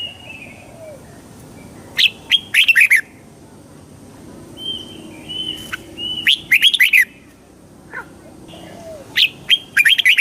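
Red-whiskered bulbul singing: three short, quick warbled phrases a few seconds apart, with softer single whistled notes between them.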